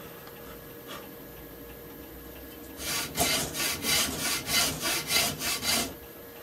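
Hand saw cutting into a hardwood plane body to open the mouth of a wooden rebate plane: a run of quick rasping strokes, about three a second, starting about three seconds in after a quiet pause and stopping near the end.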